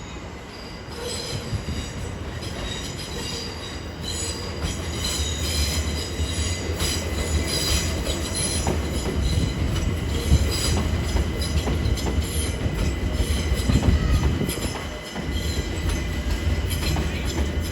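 London Overground Class 378 electric multiple unit running through the station, with a low rumble that grows louder and high-pitched wheel squeal. The sound dips briefly near the end.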